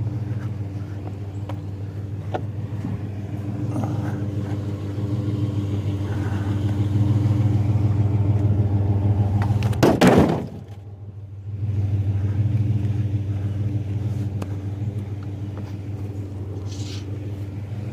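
Truck engine running steadily with a low hum as it drives. About ten seconds in there is one loud sharp knock, after which the sound drops away for about a second before the engine hum returns.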